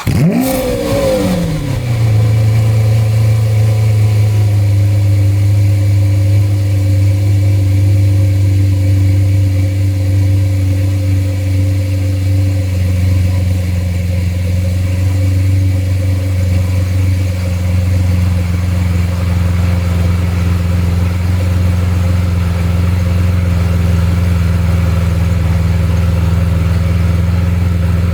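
Lamborghini Aventador LP700-4's V12 engine on a cold start. It flares in revs for about the first two seconds, then settles into a steady cold idle.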